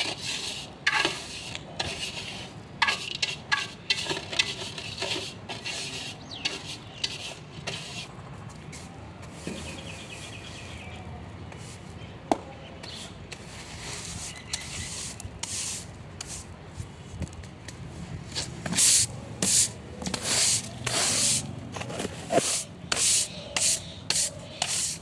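Repeated scrubbing strokes rubbing against a surface, irregular in pace, with a run of louder strokes in the last few seconds.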